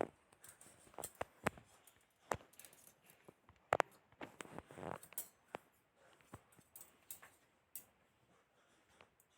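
Scattered light clicks and taps of small objects being handled, the loudest a quick double click nearly four seconds in, with a brief rustle just after.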